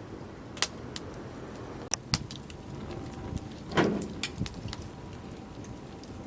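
A few sharp clicks, then a heavier knock with a short ring about four seconds in, over a steady low background rumble.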